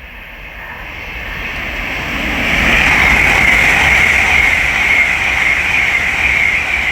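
LNER Class 801 Azuma electric train passing through the station at speed: a rushing noise that builds over the first two or three seconds, holds loud, then starts to ease near the end.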